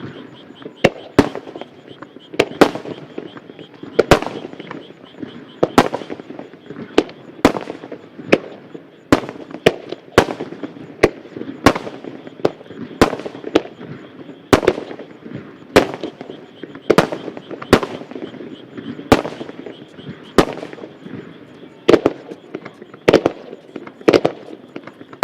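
Aerial firework shells bursting in a rapid star mine barrage. Sharp bangs come about once a second, some in close pairs, and each trails off in an echo.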